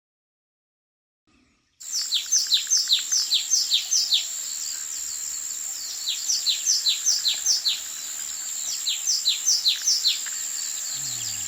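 A songbird singing outdoors: three phrases of quick, down-slurred whistled notes, starting about two seconds in. Beneath them runs a steady high-pitched drone.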